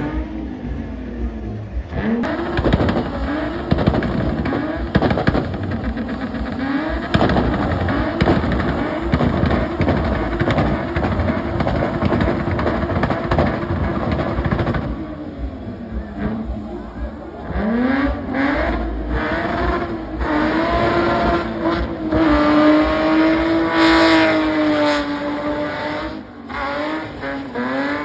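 Car engine revved hard again and again, its pitch climbing and hanging high near the limiter, with a long sustained high-rev run late on, over a rushing noise of spinning tyres, as in a burnout.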